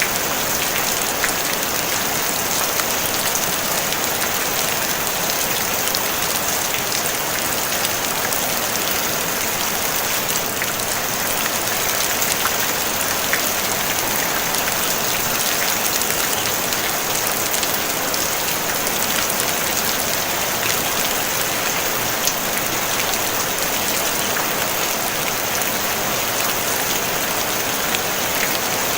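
Steady, even rain falling on a tin roof: a dense hiss of drops with scattered small ticks of individual drops on the metal, no thunder.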